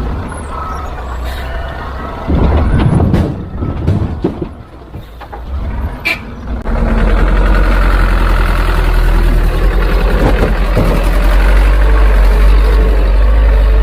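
Heavy diesel earthmoving machinery at work: uneven knocks and clatter for the first few seconds, a brief high-pitched hiss or squeal about six seconds in, then a loud, steady engine drone.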